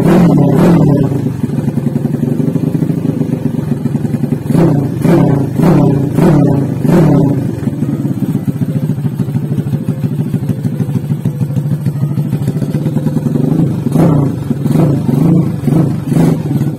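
The single-cylinder four-stroke engine of a 239cc two-valve Honda XRM-based underbone dirt bike, freshly rebuilt after a broken-crankshaft repair, runs steadily and is blipped several times: around 5 to 7 seconds in, and again near the end.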